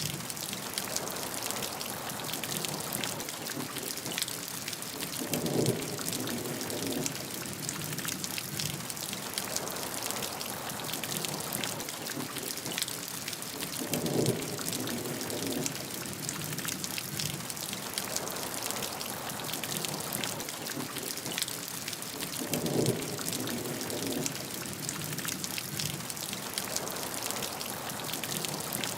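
Steady heavy rain: a dense patter of drops over an even hiss. Three times, about eight and a half seconds apart, a brief louder, lower swell rises out of it.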